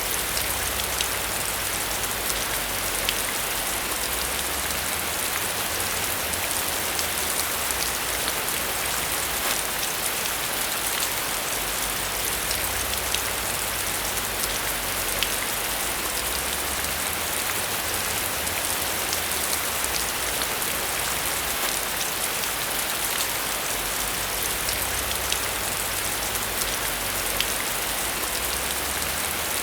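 Steady rain falling on a surface: a dense, even hiss with scattered sharper drop ticks, over a soft low rumble that swells and fades every few seconds.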